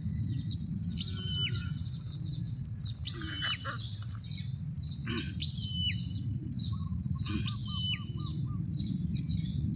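Small birds chirping rapidly and continuously. A clear whistled note that drops sharply at its end comes every second or two, and a short run of quick lower notes sounds about seven seconds in, all over a steady low rumble.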